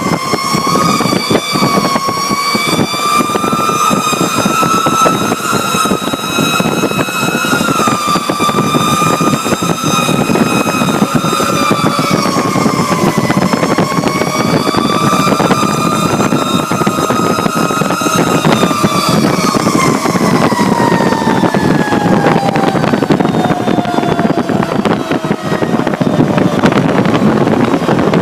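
Fire truck siren held high with small wavers, then winding slowly down in pitch over the last third, over the ladder truck's engine and road noise heard from inside the cab.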